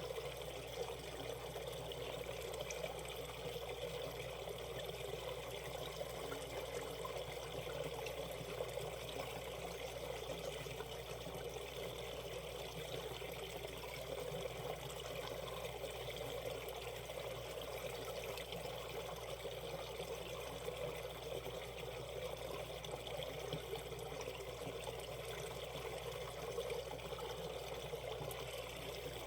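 Valley stream flowing over shallow rapids, a steady, unbroken rush of water.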